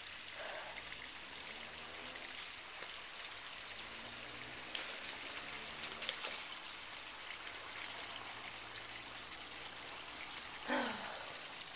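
Running water of a small creek: a steady trickling flow, with a couple of faint clicks partway through.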